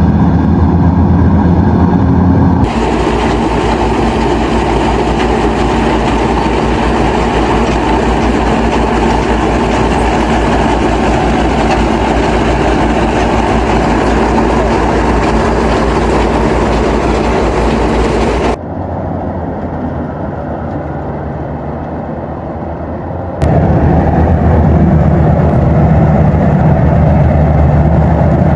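Rice combine harvester running steadily under load, engine and threshing machinery together. The sound changes abruptly about three seconds in, and again about two-thirds of the way through. There it turns quieter and duller for about five seconds before the full machine noise returns.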